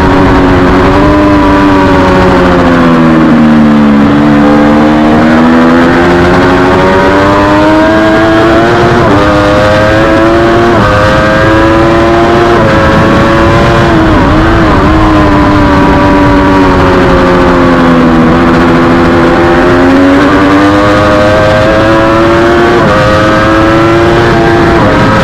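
Onboard sound of a Triumph Daytona 675R's inline-three engine at racing speed. Its pitch drops under braking and downshifts, then climbs again with brief breaks at the gear changes, over a steady rush of wind.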